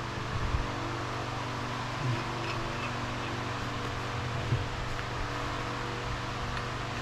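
Steady mechanical hum with a fan-like rush, with a few faint soft knocks from handling parts.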